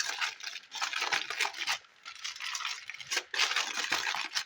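Crinkling and rustling of a sheet of kitchen wrap being folded and pressed around a ground-beef roll, in crackly stretches with a brief pause about two seconds in.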